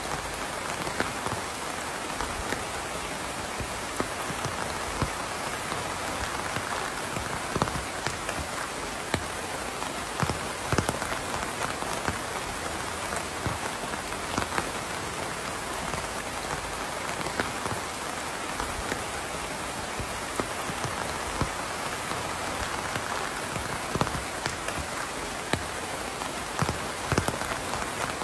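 Steady rain falling and pattering on a surface, a constant hiss with many separate louder drops plinking throughout.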